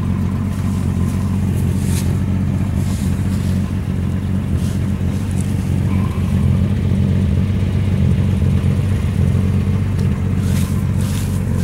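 1965 Ford Falcon's six-cylinder engine idling steadily, with a few light clicks.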